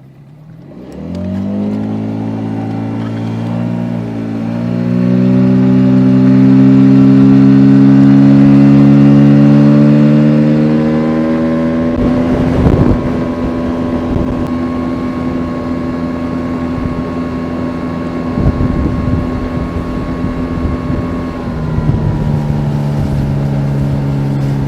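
Boat's outboard motor starting up and rising in pitch as it speeds up over the first few seconds, then running steadily at high speed. The pitch shifts about twelve seconds in and drops a step to a lower speed near the end, with a couple of brief knocks along the way.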